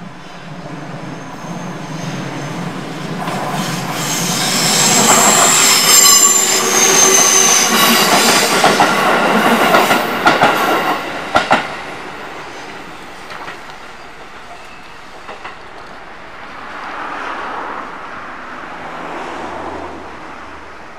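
JR 373 series electric limited express passing at speed, growing louder, then fading away. While closest it carries a high steady squeal from the wheels on the curve, with a quick run of clacks over rail joints as the last cars go by.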